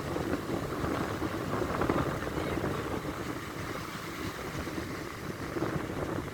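Strong wind buffeting the microphone in an irregular low rumble, over the steady wash of storm waves surging up the beach.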